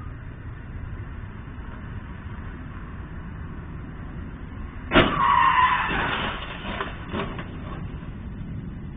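Car-and-truck collision: a sudden loud crash about halfway through, followed by about a second of tyre skidding and scraping, then a second, smaller impact a couple of seconds later, over a steady low background rumble.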